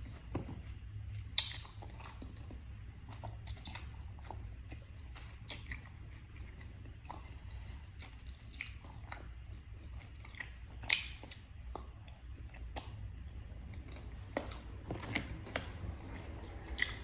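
A person chewing crispy fried chicken close to the microphone: irregular crunches and crackles, several a second at times, over a steady low hum.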